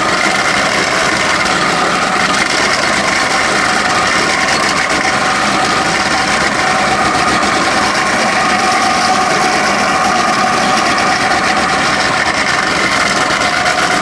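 Diakat BL-300 grinder running steadily at a constant speed, a loud, even motor whine over grinding noise.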